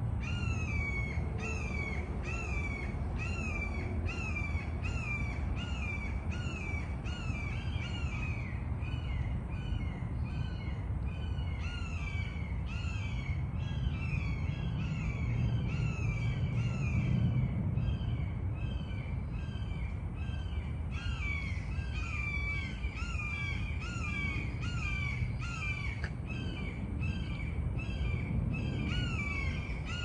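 A bird calling over and over in a steady rhythm, a little under two short calls a second, without a break.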